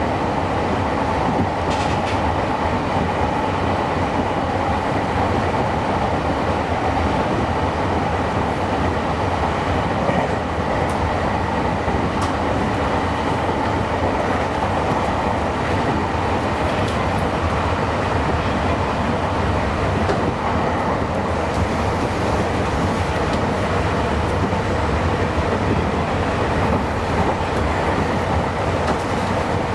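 Meitetsu 9500 series electric train running along the line, heard from inside the front car: steady wheel-on-rail running noise with motor hum.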